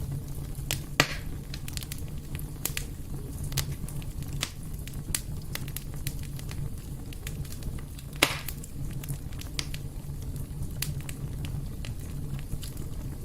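Fire in a fireplace crackling, with a steady low rumble under scattered sharp clicks. Two louder pops stand out, one about a second in and one about eight seconds in.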